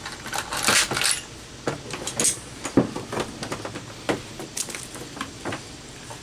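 Scattered light clicks and knocks of small hard objects being handled, with a short scraping rustle about a second in.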